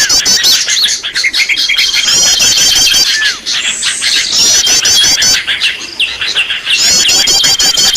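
Small songbirds chirping and trilling densely, with fast runs of high notes and a held whistle that recur every two to three seconds. This is a bird-lure (pikat) recording of small-bird calls, used to draw small birds in.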